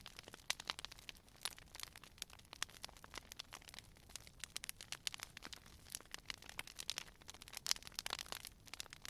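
Wood fire crackling and popping, with many small irregular snaps several times a second over a faint low rumble.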